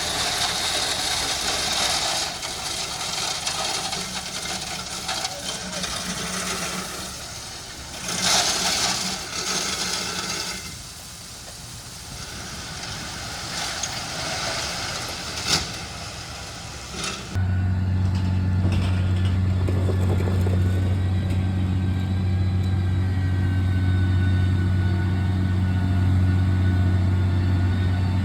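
Heavy diesel road-construction machinery running, a rough, shifting engine-and-work noise. Partway through there is an abrupt change to a steady, low engine drone at constant speed.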